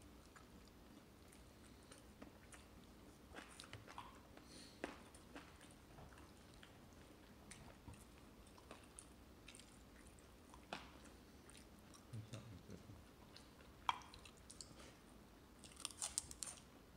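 A baby chewing fried chicken wing meat: faint, scattered mouth clicks and smacks with quiet gaps between them, a little busier near the end.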